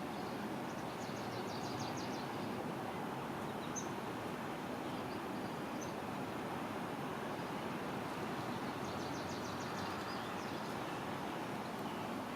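Steady outdoor background noise, a low even hiss, with faint high-pitched bird trills, rapid runs of short notes, about a second in and again near the end, plus a couple of single high chirps between them.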